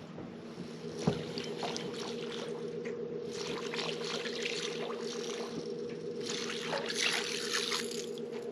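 Steady hum of a boat motor, with water splashing and rushing over it in patches; a sharp click about a second in.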